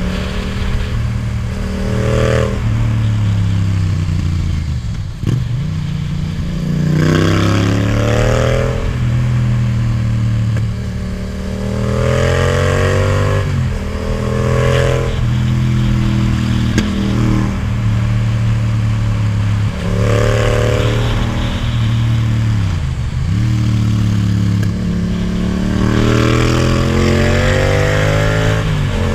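Yamaha MT-07 parallel-twin engine with an Akrapovic titanium exhaust, heard from the rider's seat, pulling up in pitch under throttle and dropping back sharply, over and over, about half a dozen times.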